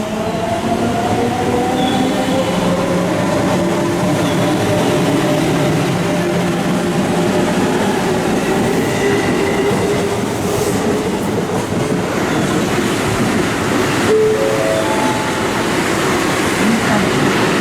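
Electric train running past at the station platform with steady wheel-on-rail noise. Its motor whine rises slowly in pitch over the first half as the train gathers speed, and a few short stepped tones sound a little past the middle.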